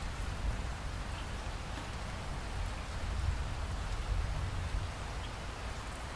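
Steady rain falling, with scattered drop ticks and a deep low rumble underneath that swells for a couple of seconds in the middle.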